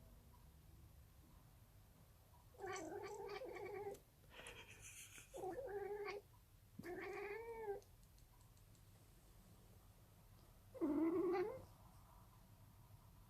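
Domestic cat making weird, drawn-out yowling calls in play rather than distress. There are four calls of about a second each, with a breathy noise between the first two, and the last call, about eleven seconds in, is the loudest.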